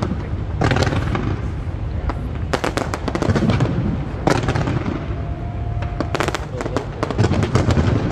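Fireworks display: aerial shells bursting in quick succession, with many sharp bangs and crackles close together over a continuous low rumble.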